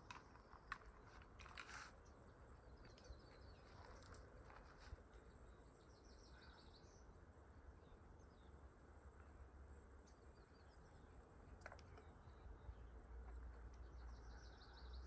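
Near silence: faint outdoor ambience with small birds chirping in short high trills now and then, a few faint clicks, and a low steady rumble underneath.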